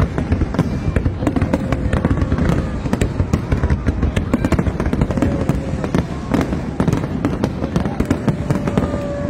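Fireworks display: a dense, unbroken run of bangs and crackles, many a second, over a low rumble of booms.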